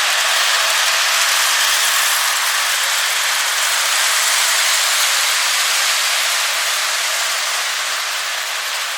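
O scale model train running on its track: a steady rolling rattle and hiss from the wheels and motor, easing off a little toward the end.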